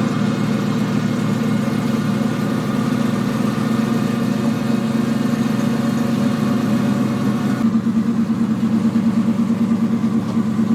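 Engine idling steadily; about eight seconds in its sound turns duller, with a quick pulsing beat.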